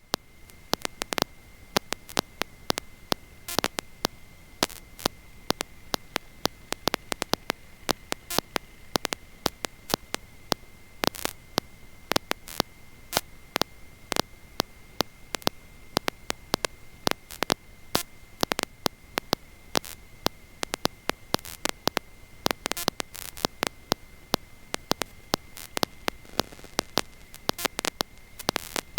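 Electrical static on an audio line: a faint hiss broken by frequent, irregular sharp clicks, over a steady high-pitched whine.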